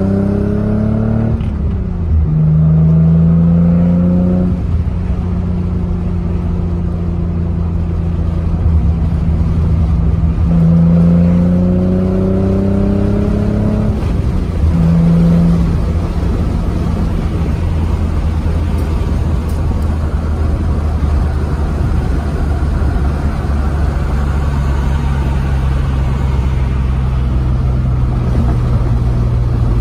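1990 Nissan 300ZX (Z32) 3.0-litre V6 heard from inside the cabin, revs climbing under acceleration and dropping at a gear change about a second and a half in. It pulls up again between about ten and fourteen seconds, then settles into a steady cruise with road noise underneath.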